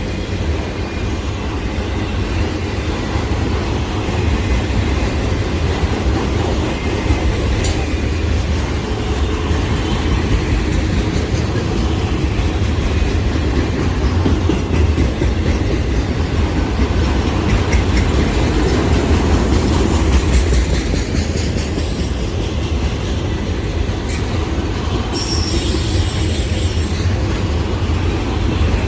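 Loaded autorack freight train rolling past, its wheels rumbling steadily over the rails, with a brief high wheel squeal near the end.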